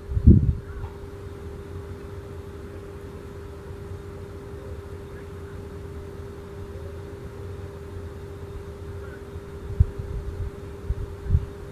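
A vehicle engine running with a steady low rumble and a constant hum. There are a few dull low thumps, one just after the start and a couple near the end.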